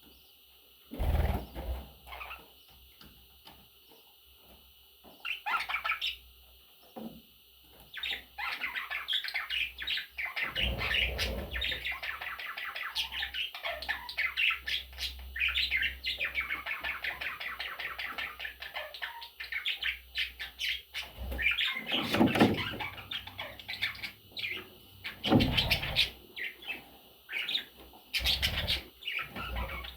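Budgerigars chirping and warbling: a few scattered calls at first, then a dense, rapid chatter from about a quarter of the way in. A few louder knocks come in the second half.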